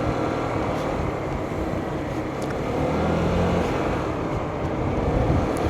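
Motorcycle engine running steadily at riding speed, with wind rushing over the microphone.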